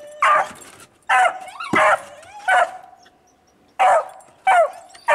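A dog barking at a squirrel trapped in a clothespin holder: about seven short, sharp barks in two bursts, with a pause of about a second near the middle.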